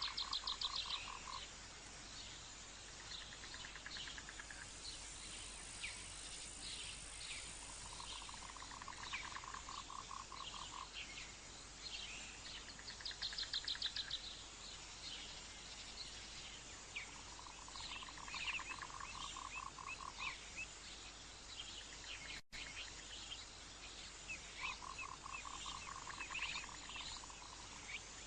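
Wild animal calls: a rapid pulsed trill that lasts about two seconds and comes back roughly every eight seconds, with shorter, higher trills and many brief chirps in between.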